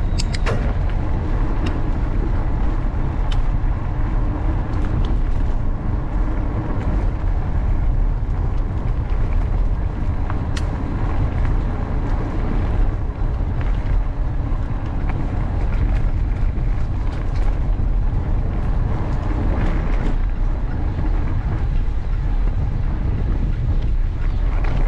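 Steady wind rumble on the microphone of a camera on a moving mountain bike, mixed with the bike's rolling noise and a few light clicks.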